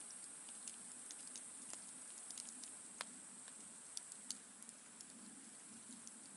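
Campfire crackling faintly, with irregular sharp pops and ticks over a soft hiss; the loudest pop comes about three seconds in.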